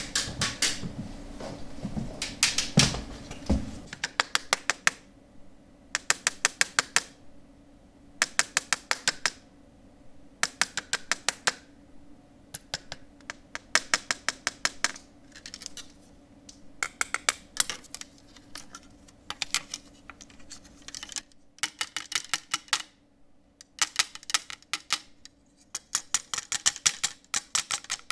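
Rapid typing: quick runs of key clicks about a second long, broken by short pauses, over a faint steady hum. The first few seconds have heavier knocking.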